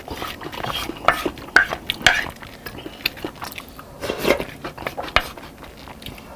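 Metal cutlery clinking and scraping against a dish in irregular short strokes during a meal, with some mouth sounds of eating.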